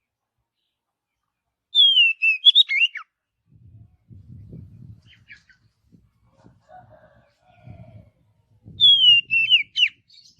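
Oriental magpie-robin (kacer) singing: two loud whistled phrases about seven seconds apart, each a falling whistle followed by quick up-and-down notes. Faint low rumbling comes between the phrases.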